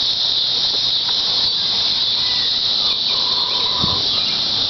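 A steady high-pitched insect drone, with no firecracker bangs yet. A faint short whistle-like tone sounds about three seconds in.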